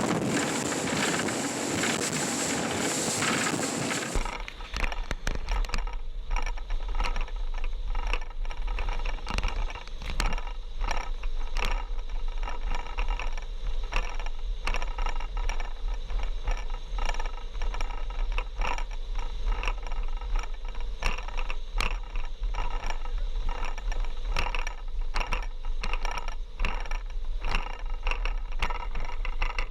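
Wind noise on the microphone on a moving boat. About four seconds in it cuts to a steady low hum with constant irregular rattling and scraping clicks.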